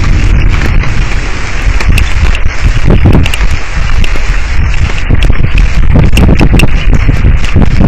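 Thunderstorm wind and rain hitting an outdoor camera microphone: a loud, steady low rumble of wind buffeting the mic, with many sharp clicks of rain striking it.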